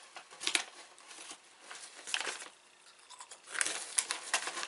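Irregular crunching and crackling of a crispy dried-noodle snack (Baby Star olive and salt) being eaten and handled, in short uneven bursts that get busiest near the end.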